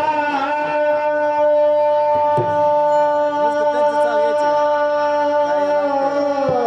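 Harmonium holding a long sustained chord as the introduction to a Marathi bhajan, the notes moving lower near the end.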